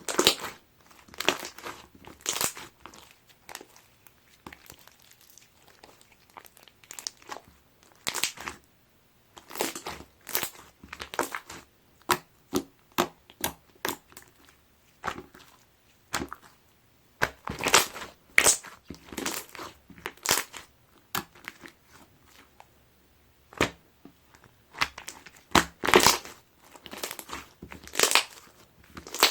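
Hands squishing and pressing clear slime mixed with ice cubes: irregular crackling squelches and sharp clicks, with the ice knocking against the desk.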